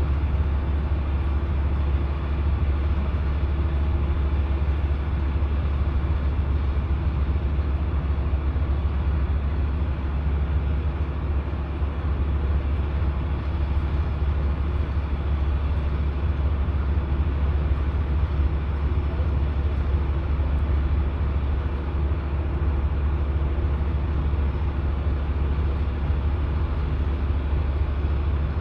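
Semi truck's diesel engine and road noise while driving, a steady low drone with no change in speed or pitch.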